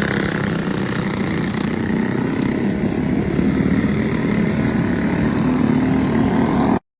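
Bone-stock Predator 212 single-cylinder four-stroke engine on a mini bike, running steadily. It cuts off suddenly near the end.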